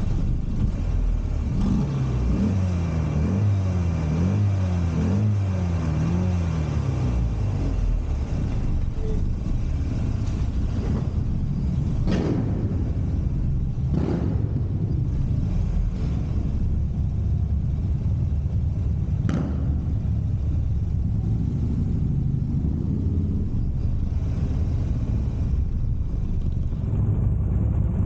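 Buell Firebolt XB12R's air-cooled V-twin engine running under way. Its pitch rises and falls several times in the first few seconds, then it settles into a steady low rumble, with a few sharp clicks around the middle.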